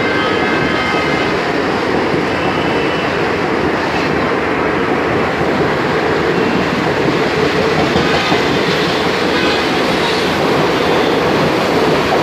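Express train hauled by a WAP-4 electric locomotive running past at speed: a loud, steady rumble and clatter of wheels on the track.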